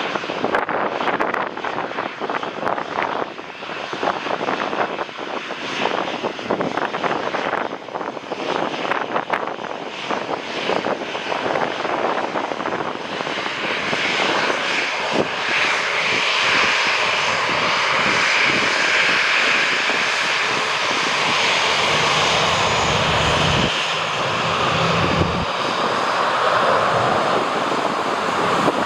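Jet airliner on approach to land, its engine roar growing louder from about halfway through and then holding steady. Gusts of wind buffet the microphone, most of all in the first half.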